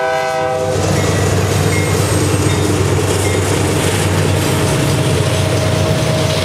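Union Pacific diesel locomotive horn ending its blast under a second in, then the lead locomotives passing close by: diesel engines running with a deep rumble under the noise of wheels rolling on the rails.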